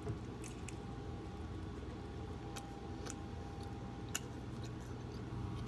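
Chewing a mouthful of breakfast sandwich, heard as a few soft, sharp mouth clicks and smacks over a low steady room hum.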